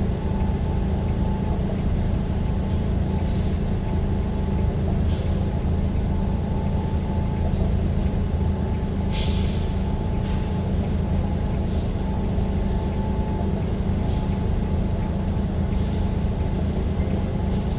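Steady low rumble of a moving vehicle, with short hisses of air every few seconds, the strongest about nine and sixteen seconds in.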